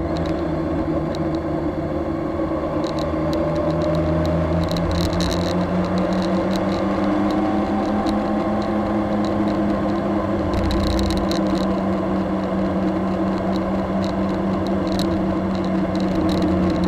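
BMW K1200S inline-four engine running steadily while the motorcycle cruises along the road, its drone drifting only slightly in pitch, under a steady rush of wind and road noise.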